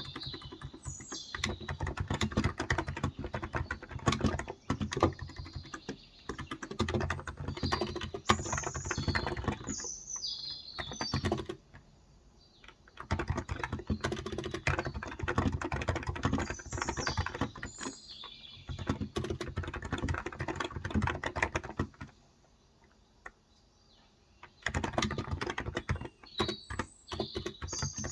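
Typing on a Cox Endeavor electro-capacitive (Topre-style) 35 g tenkeyless keyboard: runs of quick keystrokes that stop for a second or two about twelve seconds in and again for about two seconds around twenty-two seconds in. Birds chirp in the background now and then.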